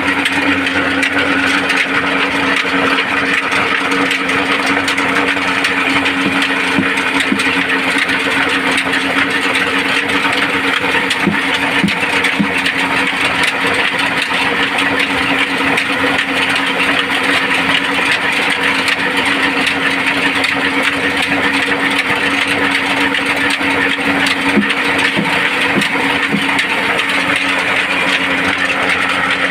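Large machinery engine running steadily, a constant hum with a dense whirring noise over it.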